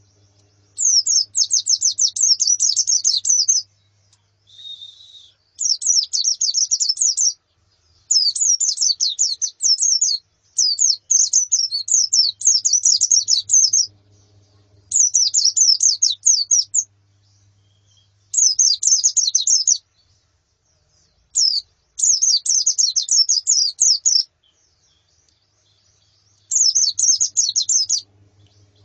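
White-eyes (pleci) twittering in rapid high-pitched song phrases: about nine bursts of two to three seconds each, with short pauses between.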